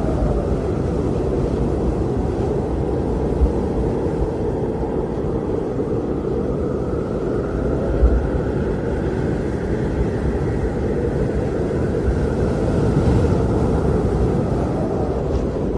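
Blizzard wind blowing steadily, a deep rushing noise with a faint howl that wavers up and down, and a short stronger gust or knock about eight seconds in.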